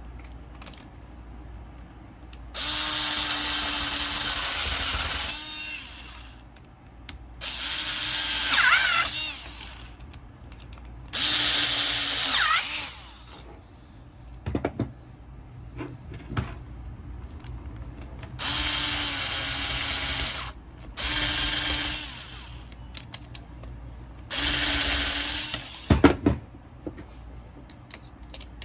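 Electric drill-driver driving screws back into a power tool's housing: six short runs of its motor, each one to about three seconds long, with a few clicks between runs.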